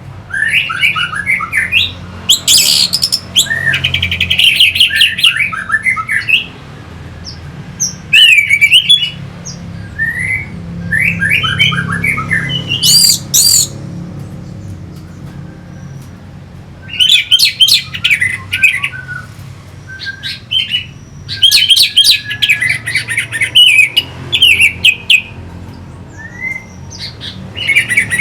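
Orange-headed thrush singing: phrases of quick, varied whistled notes that slide up and down, coming in bursts of a few seconds with short pauses between, over a faint steady low hum.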